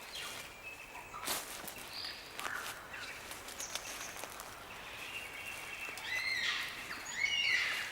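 Birds calling in forest: scattered whistled notes and a few sharp clicks, then a run of arching, quickly repeated calls near the end, the loudest part.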